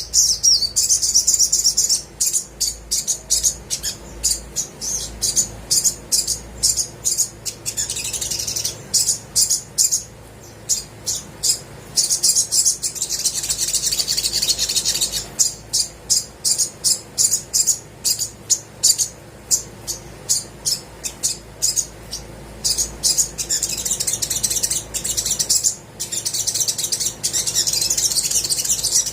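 Sunbird (sogok ontong) singing loudly: rapid series of sharp, high chips, broken by longer runs of fast, continuous twittering.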